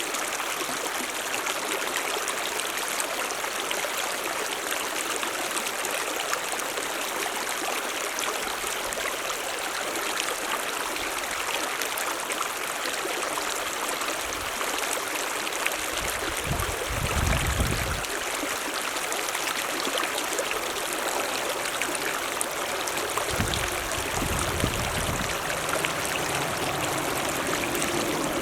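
Mountain stream running steadily, an even rush of water with no change in level. Twice in the second half a brief low rumble rises under it.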